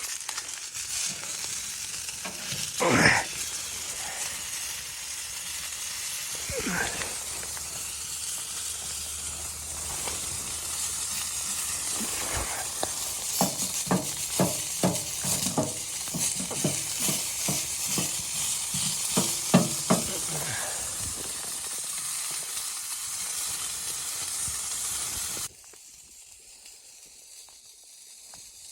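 Food sizzling in a frying pan, with a run of light taps and clicks in the middle. The sizzle cuts off suddenly near the end.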